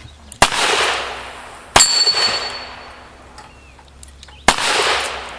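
Three gunshots at a cowboy action shooting stage, spaced unevenly a second or more apart, each echoing away. After the second shot, a steel target rings with a high clang.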